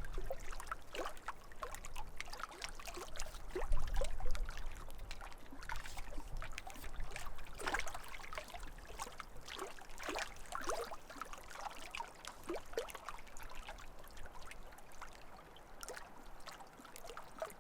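Lake water lapping and trickling at the shoreline, a steady run of small irregular drips and splashes, with a brief low rumble about four seconds in.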